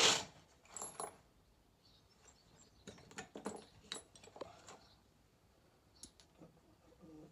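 Hand tools being handled during a stairlift strip-down: a short loud scrape at the start, then scattered metallic clicks and clinks, some ringing briefly, as a tool is picked up and fitted for the front-plate bolts.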